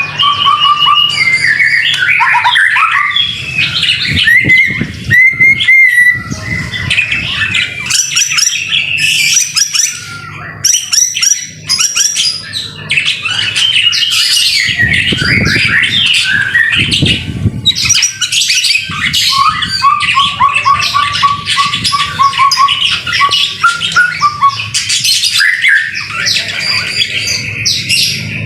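White-rumped shama (murai batu) singing in full, nonstop song: a varied run of clear whistles, pitch glides, rapid trills and harsh chattering notes.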